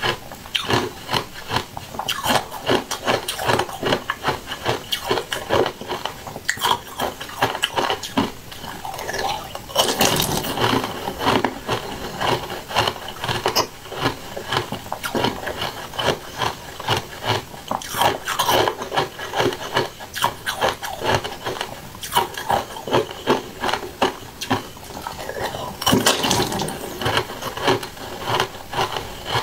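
Close-miked wet chewing of soft jelly: a constant run of small squelching mouth clicks, with louder wet bursts every several seconds.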